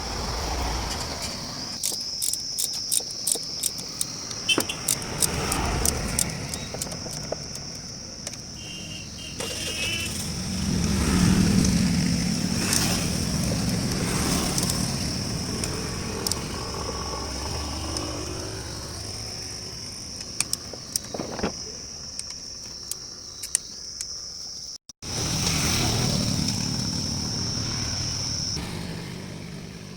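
A steady high insect drone, like crickets, runs under scattered sharp clicks and knocks, with a low vehicle rumble that swells and fades partway through.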